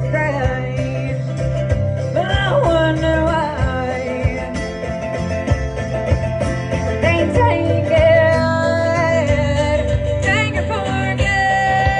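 Live country band playing, with a singer's held and bending notes over plucked string instruments and a steady low end.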